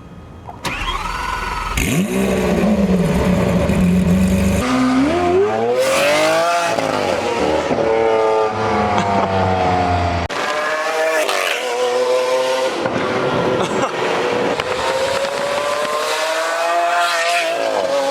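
Lamborghini Aventador SV's V12 through a catless, straight-piped exhaust, revving and accelerating hard. The engine pitch climbs and falls back again and again as it pulls through the gears, with several abrupt jumps from one run to the next.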